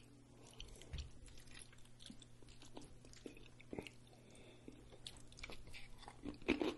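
Close-miked chewing, soft and wet with small scattered clicks, then a louder crunchy bite into a loaded tortilla chip near the end.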